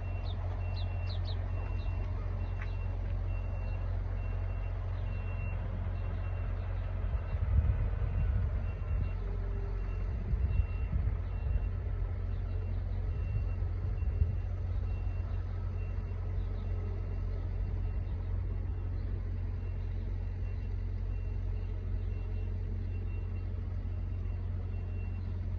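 Steady low rumble of an idling truck engine, with a vehicle's reversing alarm beeping about twice a second in runs that stop and start. A few louder knocks and bumps come in the middle.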